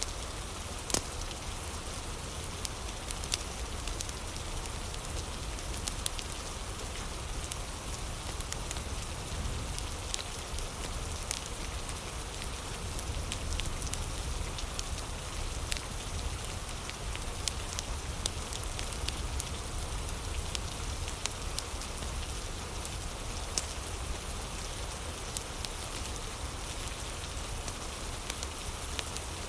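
Steady rain hissing, mixed with a fireplace fire crackling: many small sharp crackles and ticks scattered throughout over a low, even rumble.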